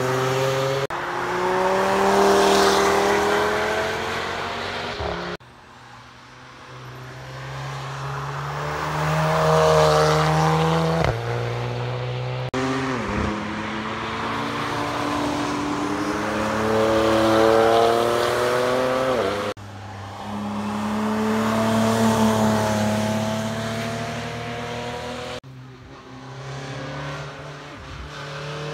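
Sports cars running past on a race circuit one after another, their engines pulling up through the revs, with gear changes and falling pitch as each one goes by. The sound breaks off abruptly several times as one clip cuts to the next.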